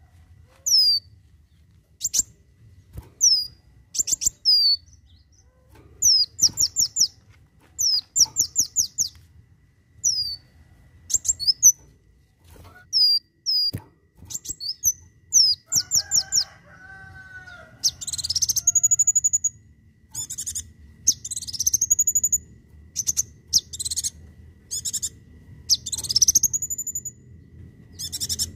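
A kolibri wulung (sunbird) singing a fast, high song made of quick runs of sharp chirps. From about two-thirds of the way in, the song changes to rising whistled sweeps repeated about every two seconds.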